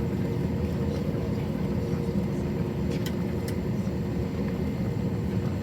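Steady cabin noise inside an Airbus A321: engine and airflow rumble with a steady hum, and two faint ticks about three seconds in.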